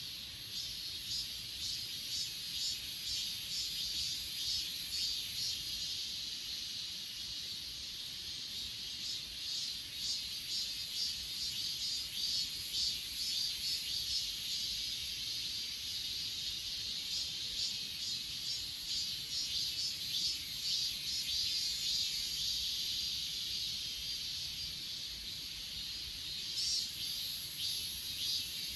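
Chorus of crickets and other grass insects: rapid pulsing chirps over a steady high-pitched trill, which grows louder near the end.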